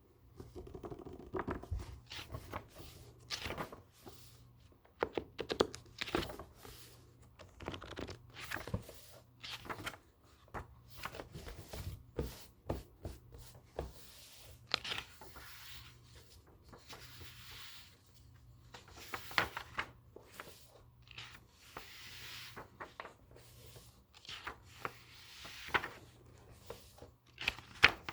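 Books handled close to the microphone: paper pages rustling and turning in several swishes, among many light taps and clicks from fingers and covers.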